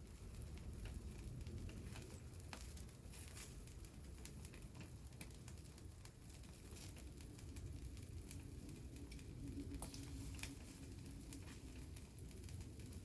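Wood fire crackling faintly, with scattered irregular pops and snaps over a steady low hiss.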